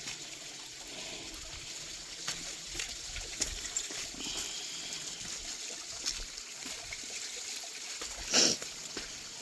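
Small creek water trickling and splashing steadily over rocks, with scattered small ticks and a short loud scuff or splash about eight and a half seconds in.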